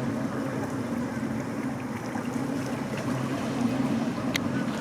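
Boat engine running steadily under way, a low hum over a wash of water noise, with a brief sharp click near the end.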